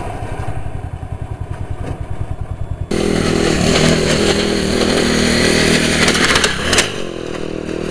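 Riding lawn mower's small engine chugging with an even pulse, then running loud at full throttle from about three seconds in. A few clattering knocks come about six to seven seconds in, and the engine eases off near the end.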